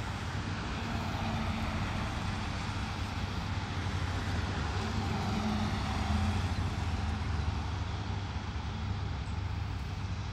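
Steady low hum and rumble of a running vehicle engine, unchanging throughout.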